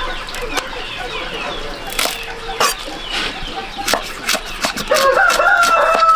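Chickens clucking amid scattered sharp taps, then a rooster crowing about five seconds in, one long held call that slides in pitch.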